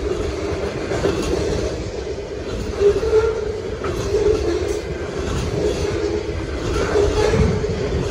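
Freight cars of a long CSX mixed train rolling past close by: a steady rumble of steel wheels on rail, with a few sharp clacks as wheels cross rail joints.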